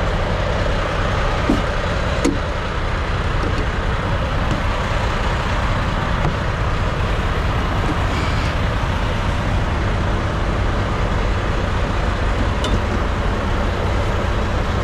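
Steady idle of a diesel semi-truck engine, with a few faint clicks and knocks over the top.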